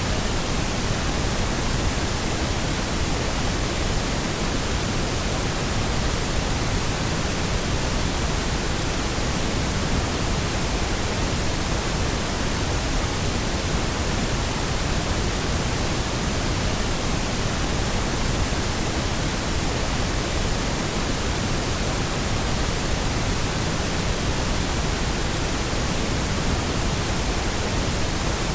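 Steady pink noise: an even, unchanging hiss across the whole range, generated as a sleep and masking sound.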